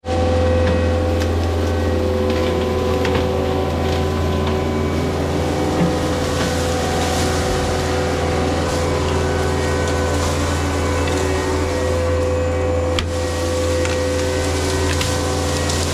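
Heavy equipment engine running steadily at constant speed, with a steady higher whine over it and a few light knocks.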